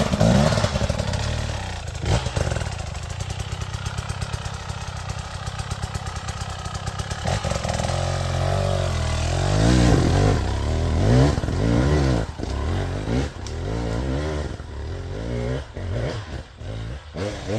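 Husqvarna enduro dirt bike's engine running, steady at first, then revved up and down again and again through the second half.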